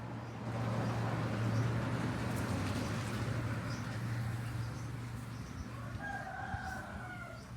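Thai decoy rooster of pradu colouring crowing, ending in one drawn-out, slightly falling note near the end. A rushing noise fills the first few seconds, and a steady low hum runs underneath.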